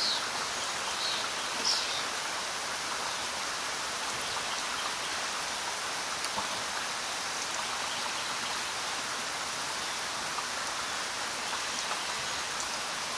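Steady rain falling, an even hiss of drops on surfaces, with a few brief high-pitched sounds in the first two seconds.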